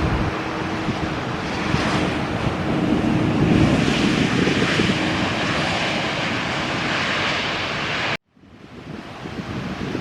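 Jet airliner passing on its landing approach: a steady engine hum and roar under heavy wind buffeting on the microphone, swelling about four seconds in. The sound cuts off suddenly just after eight seconds, then fades back in.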